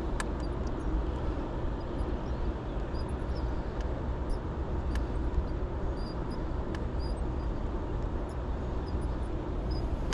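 Steady low outdoor rumble that swells and dips, with a few faint, short high chirps and light clicks scattered through it.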